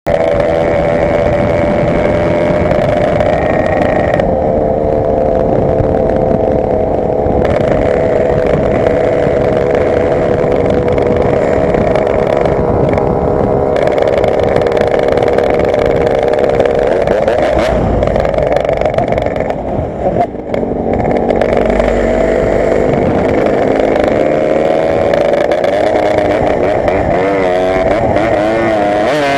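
Yamaha RX-King's 135 cc two-stroke single-cylinder engine running hard through an aftermarket racing exhaust, holding a high, buzzing pitch. About twenty seconds in, it dips briefly as the throttle eases, then the pitch climbs again near the end.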